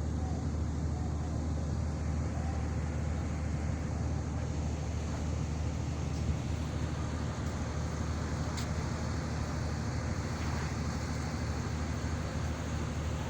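Fishing boat's engine running with a steady low drone, with one sharp click about eight and a half seconds in.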